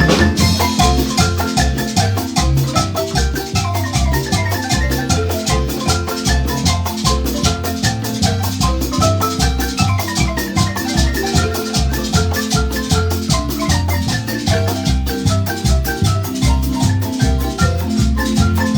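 Marimba band playing a lively piece: fast mallet runs on the marimba over a pulsing bass line, with percussion keeping a steady beat.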